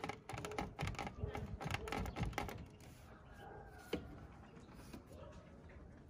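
Rapid, irregular clicks and knocks, like small hard objects clattering, thinning out after about two and a half seconds, with one more knock about four seconds in.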